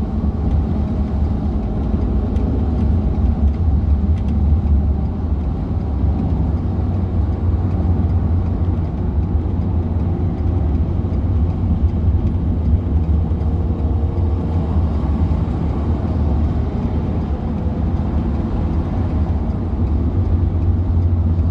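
Steady engine and road noise of a truck driving at highway speed, a constant low rumble heard from inside the cab.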